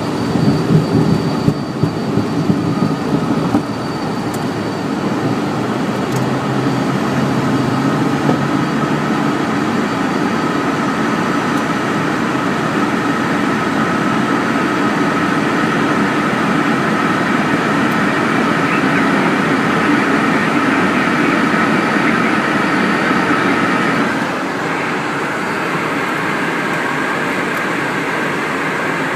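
Cessna Citation CJ3's twin Williams FJ44 turbofans running steadily with a rush of air during takeoff and climb, with a few irregular knocks in the first few seconds. The sound drops slightly about 24 seconds in.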